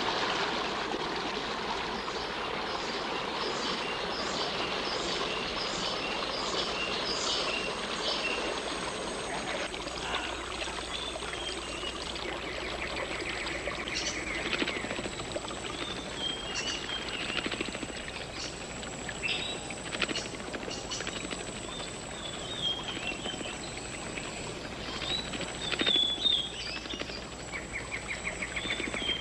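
Rainforest ambience: a steady hiss with a thin, high, continuous insect-like tone, and many short bird chirps and calls over it, including a quick trill about halfway through.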